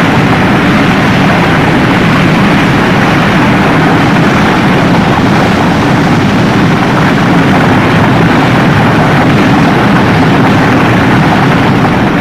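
Steady, loud roar of Big Wind's two MiG jet engines mounted on a converted Soviet tank, blasting exhaust and water spray at a burning oil well.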